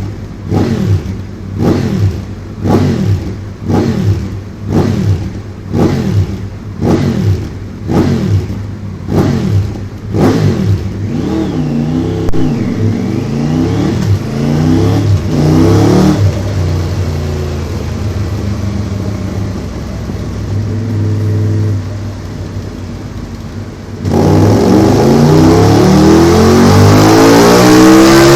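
Triumph Tiger 900 GT Pro's three-cylinder engine through a Delkevic oval carbon fibre aftermarket silencer: about a dozen quick throttle blips roughly one a second, then uneven revving and a steadier stretch at lower revs. Near the end it gets suddenly louder, with the revs climbing steadily in a hard pull on the dyno.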